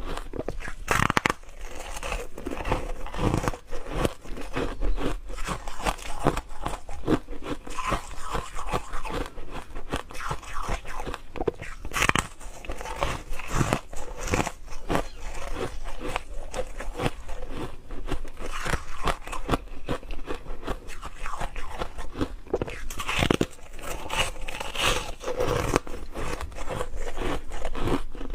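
Ice being bitten and chewed up close: a continuous, irregular crunching and crackling, with a few louder snaps as pieces break.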